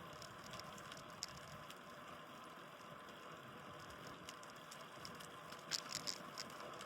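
Steady road and wind hiss of a bicycle in motion, picked up by a phone mounted on the bike, with scattered light clicks and a quick cluster of sharper clicks near the end.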